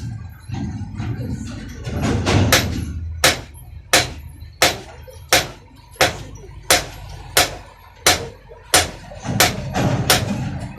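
Blacksmith's hammer striking metal on an anvil in a steady rhythm, about three blows every two seconds, each with a short ring; the blows begin about three seconds in.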